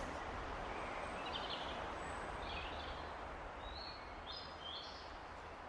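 Faint outdoor ambience, a steady hiss, with a few short bird chirps scattered through the middle and latter part.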